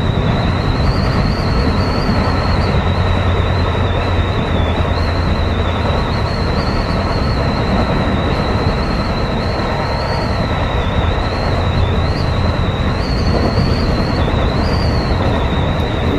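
Tobu 10030-series electric train running at speed: a steady rumble of wheels on rails with a thin high whine that wavers slightly in pitch throughout.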